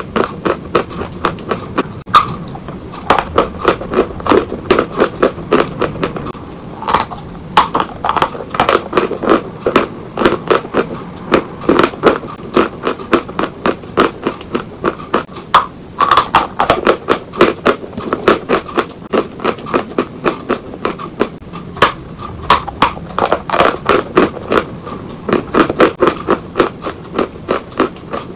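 Close-up chewing of a mouthful of Oktavia chalk: quick, dry crunches several times a second as the block is bitten and ground between the teeth.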